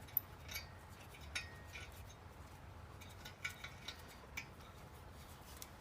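Faint, scattered metallic clicks and clinks of small metal parts and hand tools being handled, as exhaust nuts are worked onto the cylinder-head studs.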